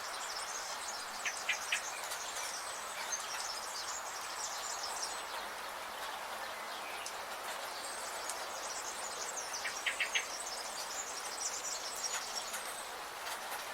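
Forest ambience: small birds chirping and twittering rapidly in high notes, busiest in the first few seconds and again in the second half, over a steady hiss. Twice, once near the start and once about two-thirds through, a quick run of three or four sharp, lower notes stands out.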